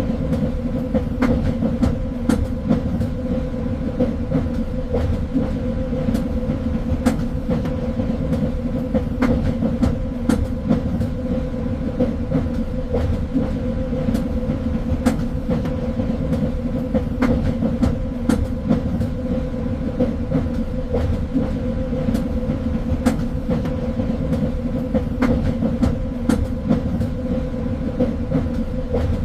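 A train running along the track: a steady low rumble with a constant hum, and irregular sharp clicks and knocks from the wheels and running gear.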